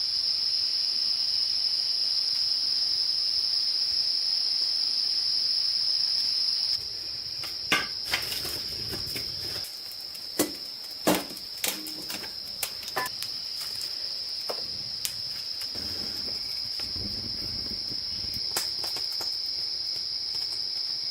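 Steady, high-pitched chorus of insects, crickets or cicadas, that drops in level about seven seconds in. A scatter of sharp knocks and clicks follows over the next dozen seconds.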